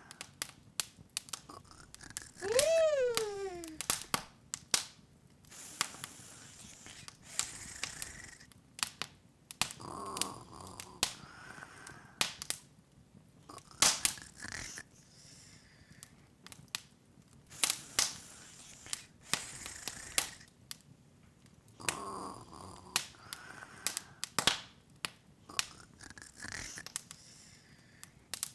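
Open wood fire crackling, with irregular sharp pops and snaps. About three seconds in, a short squeaky call that rises and then falls in pitch.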